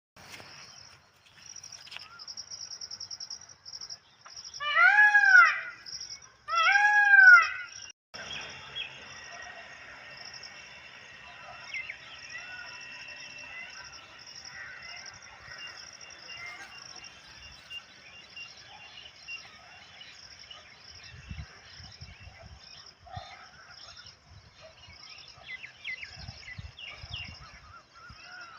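Indian peafowl (peacock) giving two loud wailing calls, each about a second long and rising then falling in pitch, about four and a half and six and a half seconds in. A steady high pulsing trill of insects runs throughout, and fainter bird calls are scattered through the rest.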